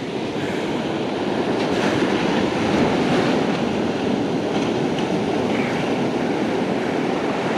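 Steady rushing noise of surf breaking along the beach, even and unbroken.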